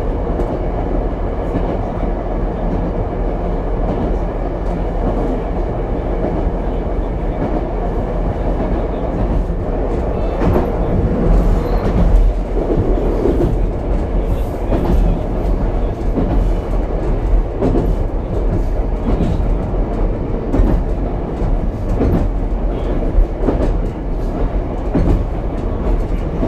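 Ichibata Electric Railway 7000-series railcar running between stations, heard from inside the car: a steady rumble of wheels on the track. From about ten seconds in, sharper irregular clicks and knocks of the wheels over rail joints grow more frequent.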